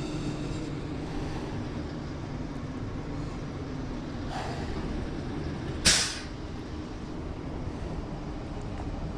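Steady low hum of a running vehicle engine, with a short, sharp hiss about six seconds in and a fainter one just before it.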